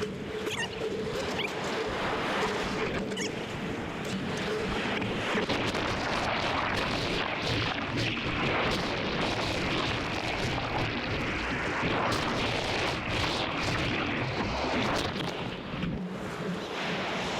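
Steady rushing noise of ocean surf and wind buffeting the microphone.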